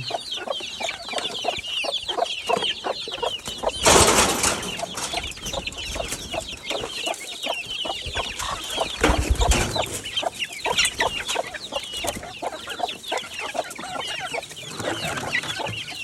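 Chickens clucking while chicks peep constantly in quick, high chirps. A loud rustle breaks in about four seconds in, and a dull thump comes around nine seconds.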